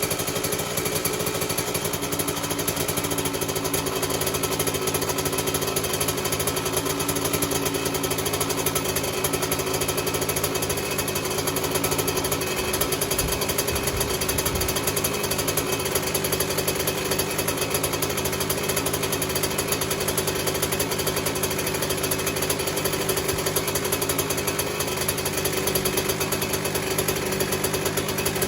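Kawasaki KX125's single-cylinder two-stroke engine idling steadily, warming up after a cold start.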